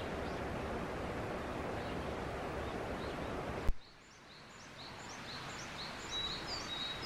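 A steady rushing outdoor noise ends abruptly with a click. Then comes a quieter woodland with small birds chirping: short, high, repeated chirps, three or four a second, and a thin high whistle near the end.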